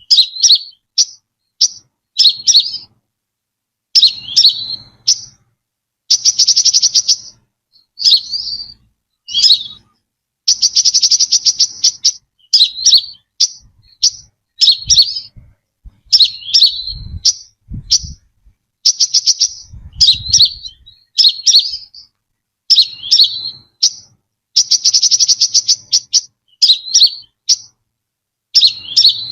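Brown-throated sunbird singing: high-pitched rapid trills about a second long, alternating with short sharp chirps, in a repeating phrase.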